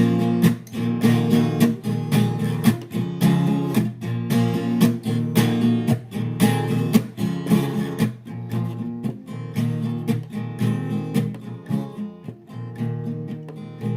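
Acoustic guitar strummed in a steady rhythm, an instrumental passage of a song, with the strumming getting quieter over the last few seconds.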